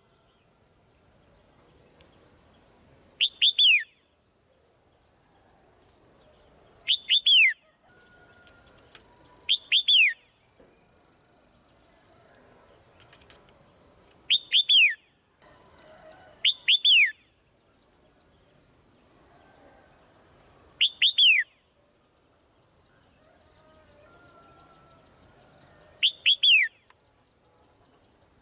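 Swallow calling: groups of two or three quick downward-sliding chirps, repeated every few seconds, over a steady faint high hiss.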